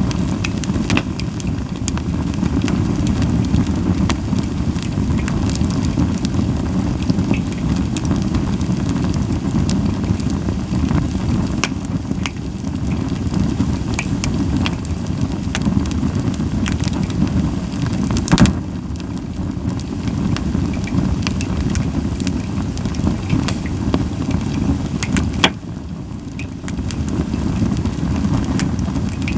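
Japanese white pine firewood burning in a campfire, crackling with scattered pops over a steady low rumble. There are sharper single pops at about 18 and 25 seconds in.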